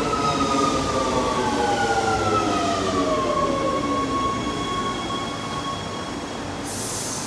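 Rome ATAC metro train's electric traction motors whining, the pitch falling as the train slows, then levelling off and fading away. A short hiss near the end.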